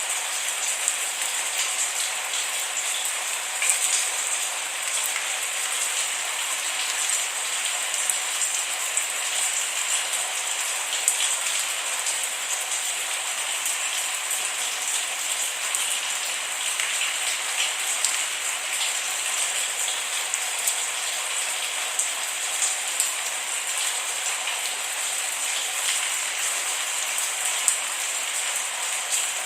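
Steady rain falling, an even hiss with scattered small drop ticks and no thunder.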